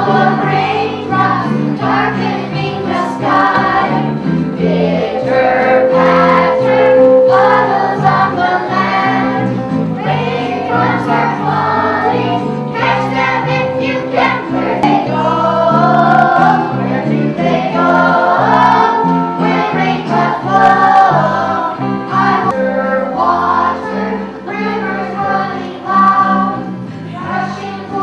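A choir of young schoolchildren singing a song together, with instrumental accompaniment underneath.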